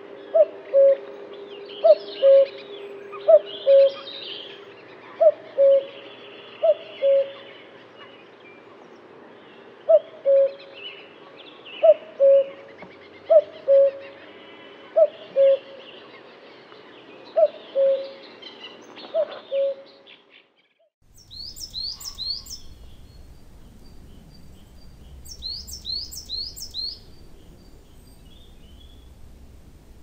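A bird repeats a two-note hooting call every second or two, the first note short and falling, the second held. Past the two-thirds mark the sound cuts to a low rumble, with two bouts of high-pitched chirping trills.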